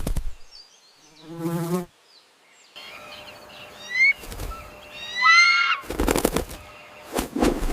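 Animal sounds: a short, low, pulsing buzz about a second in, then two rising whistled calls, then bursts of noise near the end.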